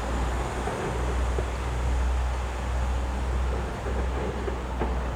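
Fireworks display: a low, swelling rumble of bursts with a few faint sharp cracks, near the start and near the end.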